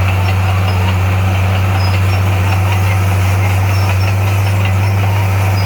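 Diesel engine of a heavy earthmoving machine running steadily with a deep, even hum.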